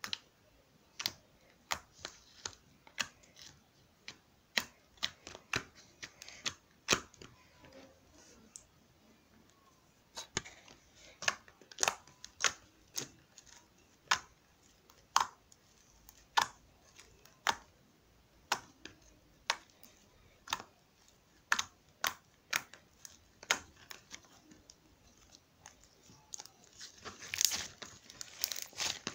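Sharp clicks or taps from something being handled, roughly one a second with short quiet gaps, then a burst of crinkling near the end.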